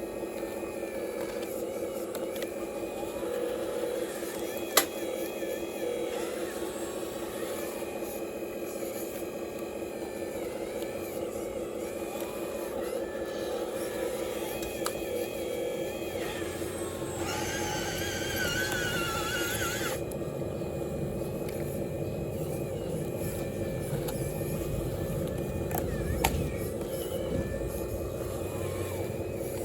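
Radio-controlled Cat excavator and truck running with a steady electric motor and hydraulic whine, and a sharp click about five seconds in and again near the end.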